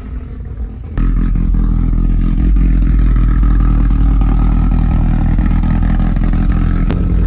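Car engine running loud and close, a steady low rumble that jumps up sharply about a second in and then holds.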